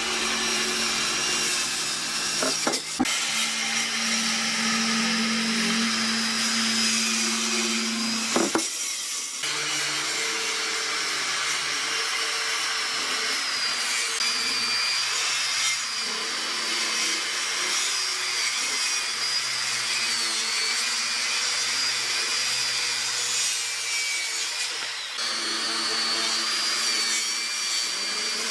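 Power woodworking tools running steadily and cutting wood, the sound changing abruptly a few times: about three seconds in, around nine seconds, and near the end.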